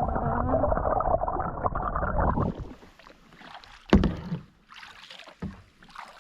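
Kayak paddling on calm water: a couple of seconds of loud splashing and rushing water as the paddle works, then quieter drips and splashes, with one sharp knock about four seconds in.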